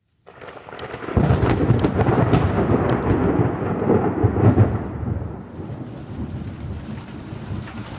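A long roll of thunder over steady rain on a roof. It swells in within the first second, stays loudest for about four seconds, then dies away and leaves the rain hiss.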